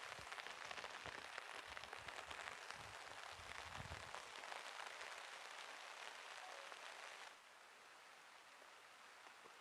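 Heavy rain pattering steadily on a tarp overhead, with a few low bumps around the middle. About seven seconds in it drops suddenly to a fainter rain hiss.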